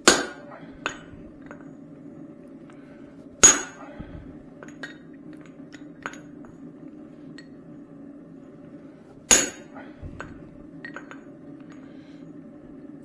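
Three heavy hand-hammer blows driving a punch through the eye of a hot steel hammer head on an anvil, each a sharp ringing strike, the first at the start, the second about three and a half seconds in, the third about nine seconds in, with small metal clinks between them. A steady low hum runs underneath.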